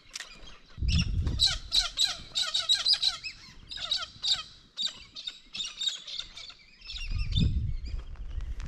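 Small birds chirping and chattering, many quick short calls overlapping. There are low rumbles about a second in and again near the end.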